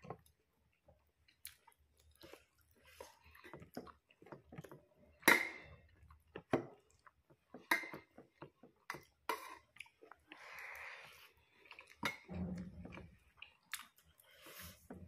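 Close-up chewing and mouth sounds of a person eating rice and curry by hand: irregular wet smacks and clicks, with a short breathy hiss partway through.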